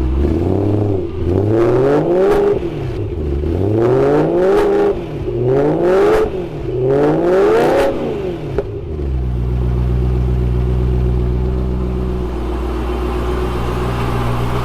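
Supercharged BMW E93 M3's 4.0-litre V8 running through a freshly built custom exhaust with a deep note: it is revved four times in quick succession, each rev climbing and falling back, then settles to a steady idle for the last five seconds or so.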